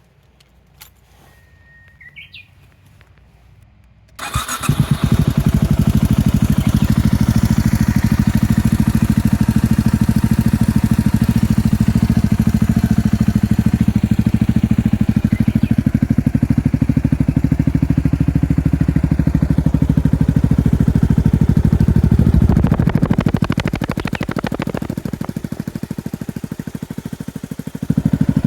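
A short bird chirp, then about four seconds in a Yamaha WR250X's single-cylinder four-stroke engine starts and settles into a loud, steady idle through a Yoshimura exhaust fitted with its inner baffle (dB killer). Near the end the sound drops for a few seconds, then comes back up.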